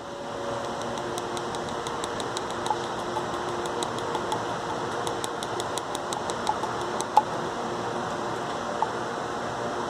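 Exothermic weld charge burning in its mould to fuse copper conductor to rebar: a steady rushing hiss, with fine crackling and a few sharp pops scattered through it.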